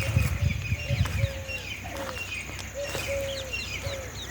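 Birds calling in the open: a short low call repeating about twice a second, with higher chirps mixed in. A few low thumps come in the first second or so.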